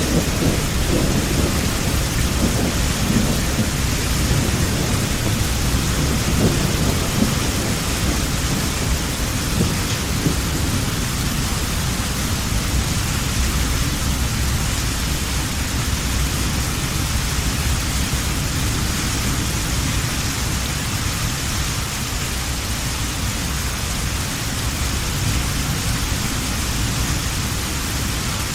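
Heavy rain falling steadily, with a low rumble of distant thunder over the first several seconds that dies away.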